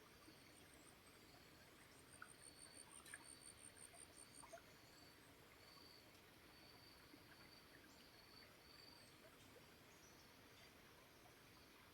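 Faint nature ambience: a soft steady hiss, with a short high chirp repeating about once a second and, from about two seconds in until about four and a half, a fast high trill of about six pulses a second.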